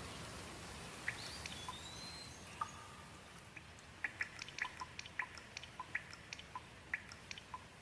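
Water drops plinking over a soft steady hiss, scattered at first and coming thick and fast in the second half. A single rising-then-falling bird whistle sounds about a second and a half in.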